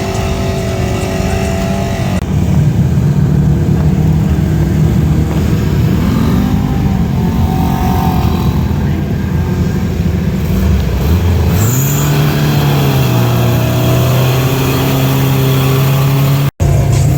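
A mud truck's engine revving, its pitch wavering up and down, then climbing sharply about eleven seconds in and holding high and steady. The sound cuts out for an instant near the end.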